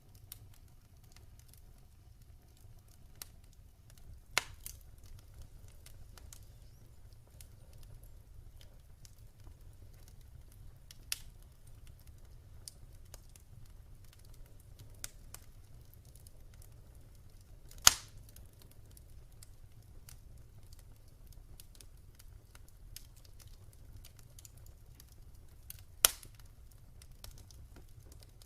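Fire burning in a fireplace: a steady low rumble with soft crackling and a few sharp pops, the loudest about two-thirds of the way through.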